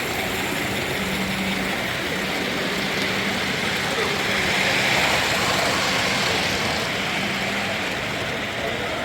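Many people talking at once in a large hall, a dense crowd murmur, with a steady low hum underneath; the rush swells a little about halfway through.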